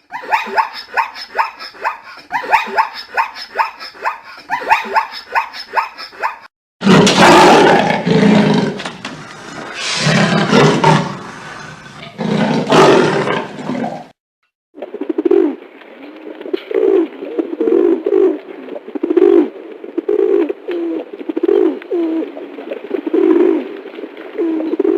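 Recorded animal calls in three clips one after another: a fast run of short repeated calls, then a loud roar lasting about seven seconds, then a run of low repeated calls about twice a second.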